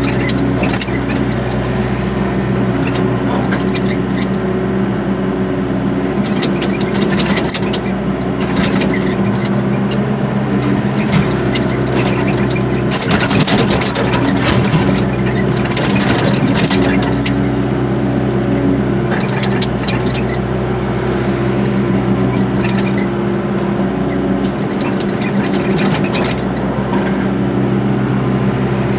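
Excavator's diesel engine running steadily, with bursts of metallic clanking and rattling now and then.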